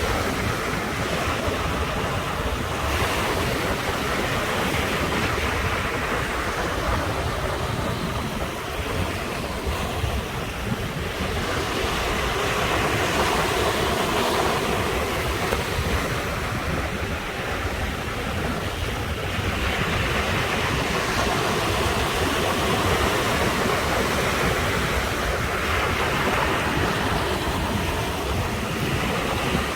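Ocean surf washing onto the shore in a continuous rush, swelling as waves break about every six seconds, with a low rumble of wind on the microphone.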